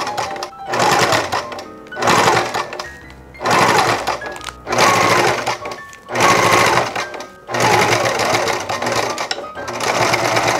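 Electric sewing machine stitching a seam at normal stitch length through layered fabric and PVC, run in about seven short bursts of roughly a second each with brief stops between. Background music plays underneath.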